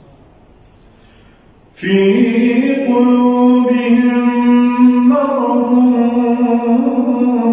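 A male voice chanting Quranic recitation in the melodic tajwid style. It enters about two seconds in after a short pause and holds long, drawn-out notes that shift pitch slowly.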